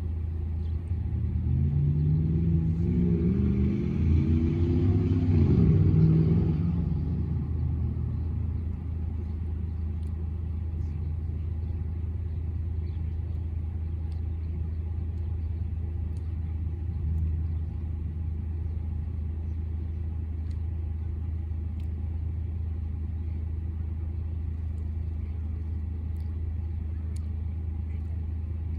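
Steady low rumble of a motor vehicle engine and street traffic. From about a second in to about seven seconds in, a vehicle passes, its engine pitch gliding up and down. A smaller swell follows a little after halfway.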